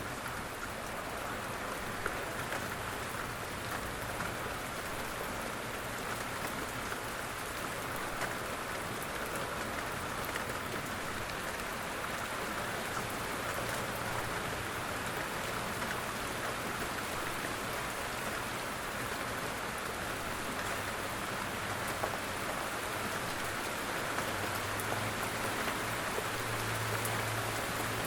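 Steady rain falling, an even patter of drops on a surface with no letup.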